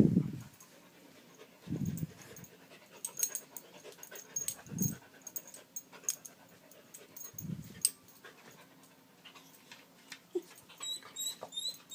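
A beagle panting hard, with a heavy breath every two to three seconds, the first the loudest, and light clicks in between; the panting is a sign of the fear set off by the smoke alarm's low-battery chirp. A few quick high squeaks come near the end.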